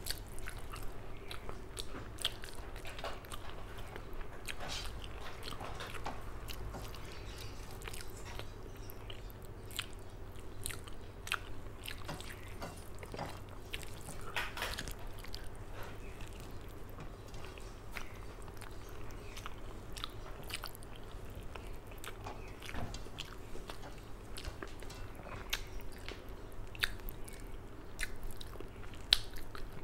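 Close-miked chewing of a mouthful of rice and curry, with many small wet mouth clicks and lip smacks, and soft scrapes of fingers gathering food on a steel plate. Near the end, fingers are sucked clean.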